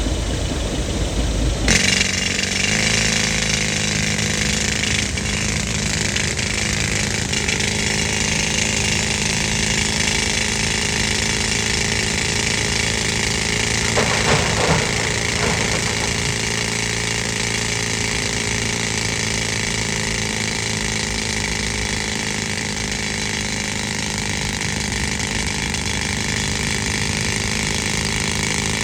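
A pneumatic rock drill, driven by an air compressor, starts up about two seconds in and runs steadily with a dense, hissing noise over the compressor's engine. A few knocks come about halfway through.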